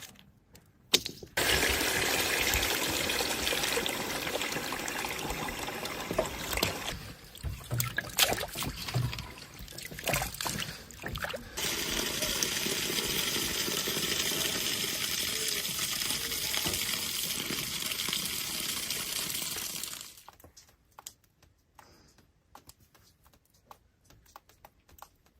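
Water running steadily, starting abruptly, breaking off for a few seconds with some clicks about halfway through, then running again before it stops suddenly.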